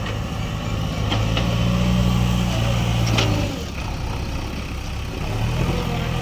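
Heavy diesel engine running, working harder for a couple of seconds before easing back and picking up again near the end, with a few sharp knocks.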